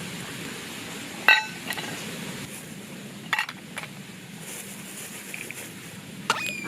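Three sharp metallic clinks, about two seconds apart, each ringing briefly, with a few fainter ticks between them over a steady low background hiss.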